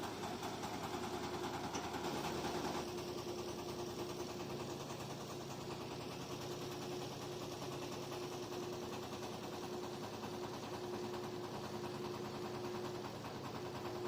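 Small fishing boat's engine running steadily under way, with a constant hum.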